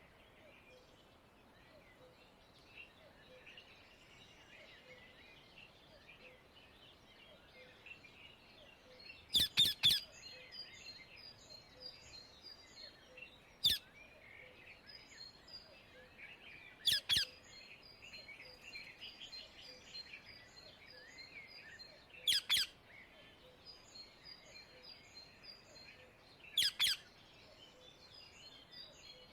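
Indian ringneck (rose-ringed) parakeet giving loud, short, shrill calls in groups of one to three, about every four seconds from about a third of the way in. Faint chirping of smaller birds runs underneath.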